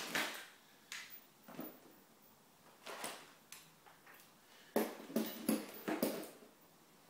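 A scattering of short clunks and rustles, bunched together about five to six seconds in: the parts and fixings of an exhaust kit being handled.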